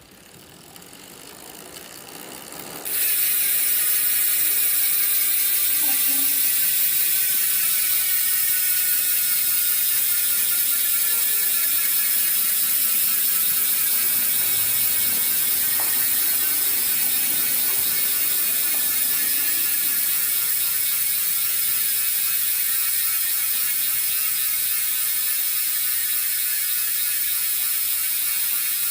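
A SYTE six-pawl bicycle freehub freewheeling, its pawls clicking so closely together that they merge into a dense, cricket- or wasp-like buzz. It starts faint, jumps louder about three seconds in, then runs on with its pitch slowly falling as the wheel coasts down.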